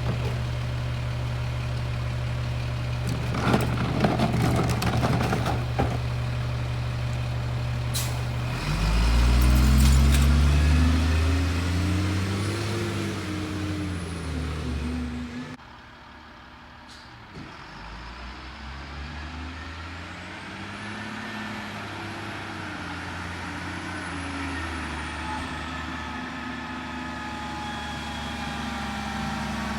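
Diesel engine of a Peterbilt McNeilus rear-load garbage truck idling with some clattering, then pulling away hard. It revs up through several gear changes with a high whistle above the engine. After a sudden break, the truck is heard again, quieter, accelerating away through the gears with the same whistle.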